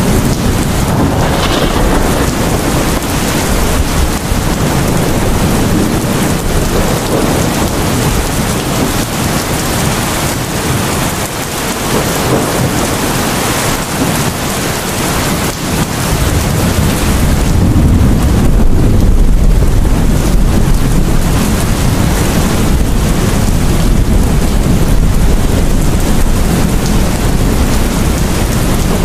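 Heavy rain falling steadily, with thunder rumbling low. The deep rumble swells a little past halfway and carries on.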